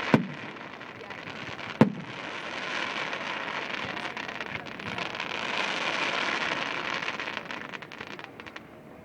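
Fireworks: two sharp bangs, one right at the start and one about a second and a half later, then a long crackling hiss of crackle effects that swells and fades away near the end.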